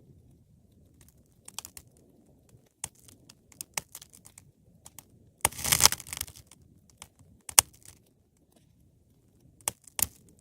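Wood fire burning in a fireplace: a low rumble of flames under scattered crackles and sharp pops. A dense burst of crackling comes about halfway through, and loud single pops follow later, one near the end.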